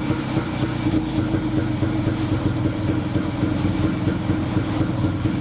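1938 DKW SB 250 Sport's single-cylinder two-stroke engine running steadily at idle, warming up after a cold start.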